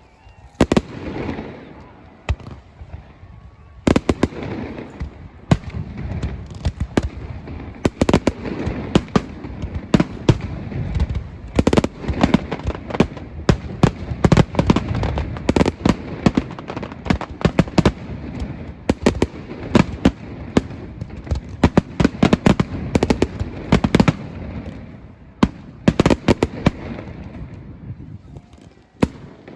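Fireworks display: rapid, overlapping bangs and crackles over a low rumble, sparse for the first few seconds and then near-continuous volleys.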